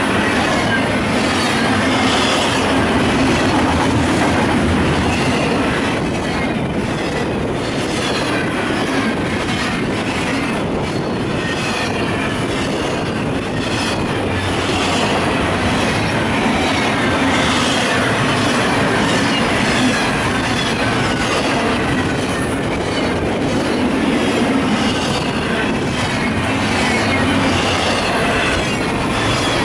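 Double-stack intermodal container train rolling past close by: steel wheels running steadily on the rails, with repeated clicks as the wheels pass.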